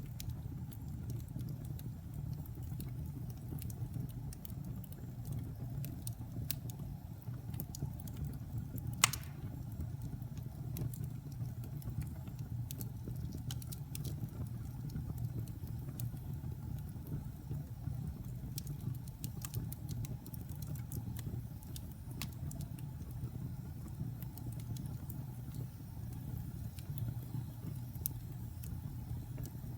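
Wood fire burning in a fireplace: a steady low rumble of flames with scattered small crackles and one loud pop about nine seconds in.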